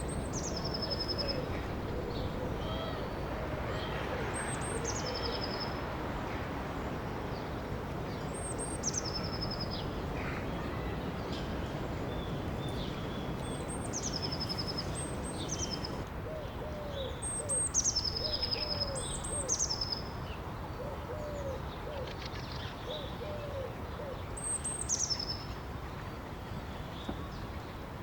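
Birdsong over a steady rush of river water. One bird repeats a high whistle that drops in two steps every few seconds, while another gives low calls in short series, most clearly in the second half.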